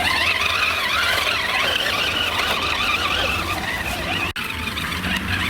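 Radio-controlled toy monster truck's electric motor whining as it drives, the pitch wavering up and down with the throttle; it cuts off abruptly about four seconds in.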